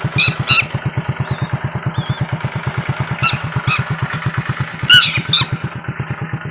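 A small motorcycle engine running at a steady low pulse of about ten beats a second. Over it, a bird gives sharp, loud calls in pairs: near the start, about three seconds in, and again around five seconds in.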